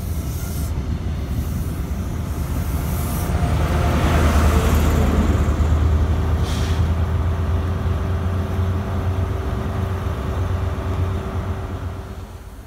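InterCity 125 High Speed Train moving past, its coaches rumbling over the rails, then the Class 43 diesel power car going by with a steady engine hum; the rumble is loudest about four to six seconds in. A short hiss of air comes about halfway, and the sound drops away near the end.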